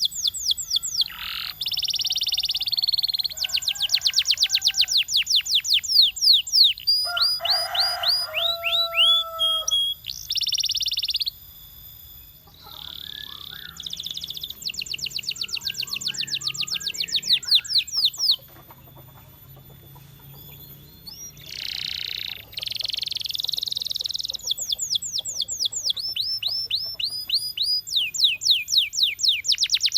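Canary singing: phrases of very fast, repeated trills and rapid falling sweeps, with a few held notes. The song drops away briefly about twelve seconds in and again around twenty seconds before resuming.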